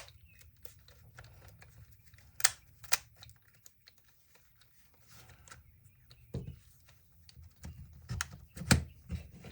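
Sharp clicks and taps of small plastic drill parts being handled and fitted together, a few scattered strokes and then a quicker run of knocks near the end.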